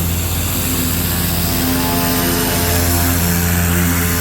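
A machine motor running steadily with a hiss over it, from the tool being used to clean the aluminium pontoon tubes.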